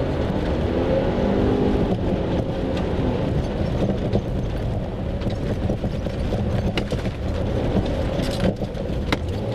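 A BMW E36's engine running hard while being driven on snow, its pitch rising and falling in the first couple of seconds. A few sharp clicks or knocks come near the end.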